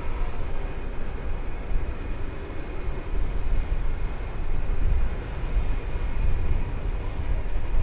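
Jet airliner's engines at takeoff power: a steady rumble with a faint high whine running through it.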